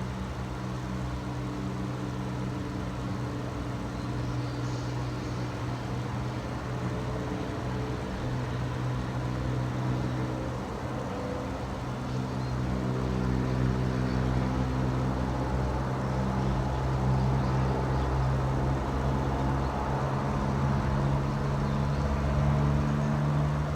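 A low, steady engine hum with several tones that drift slowly in pitch, getting somewhat louder about halfway through.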